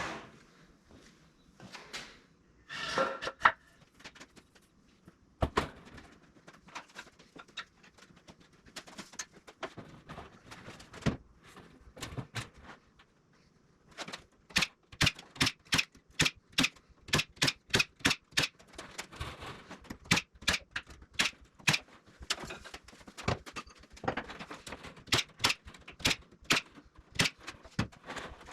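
Sharp clicks or knocks from hand-tool work: a few scattered ones at first, then a steady run of about two a second through the second half.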